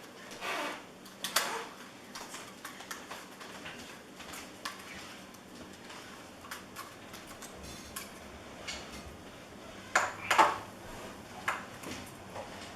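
Hard plastic objects being handled: scattered clicks, knocks and rustles, with a louder knock about a second in and a few more near the end.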